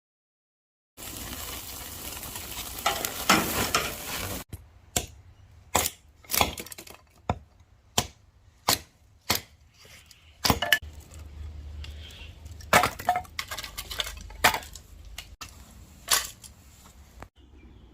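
Cooking sounds: a few seconds of sizzling, then a run of sharp knocks and clinks from a knife and utensils on a board and pans, one every half second to a second, with the background changing abruptly between takes.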